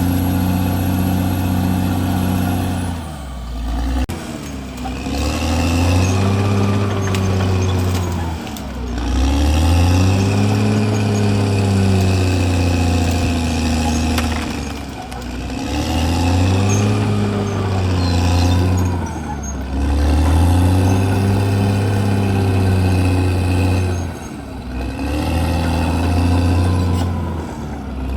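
CAT D6R XL bulldozer's diesel engine running, its speed dipping and climbing back about every five seconds, five times over. A thin high whine stops about three seconds in.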